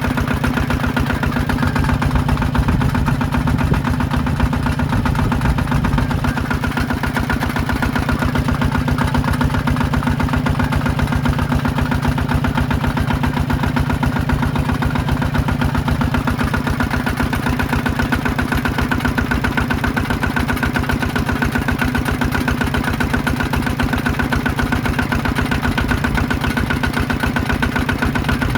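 Yanmar diesel engine of a power tiller running steadily, with a rapid, even chugging.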